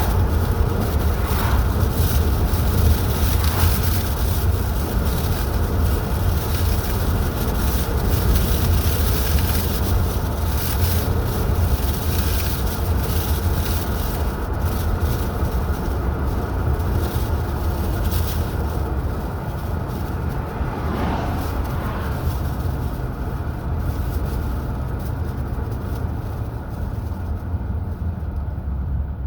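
Car driving along a highway: a steady low rumble of engine and tyres on the road, with a hiss of road and wind noise that thins out near the end.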